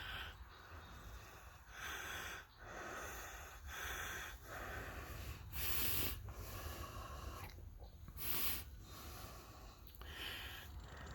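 A cyclist's heavy breathing: noisy breaths about a second apart, some louder than others, over a steady low rumble.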